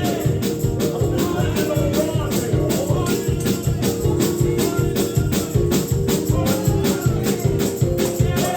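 Live church praise-and-worship music: a fast, steady shaker and tambourine beat over held keyboard chords, with some singing.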